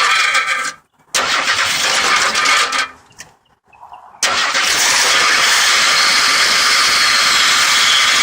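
1983 Ford F100's inline-six engine being started: two cranking bursts of about two seconds each, then about four seconds in it starts and runs with a loud, steady high-pitched screech.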